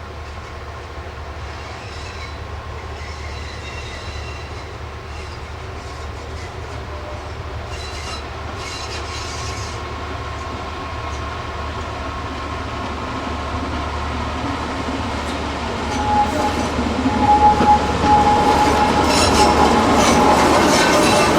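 A train on the Diakofto–Kalavryta rack railway approaching and growing steadily louder, its steel wheels squealing in high tones, with metallic clicks over the last few seconds.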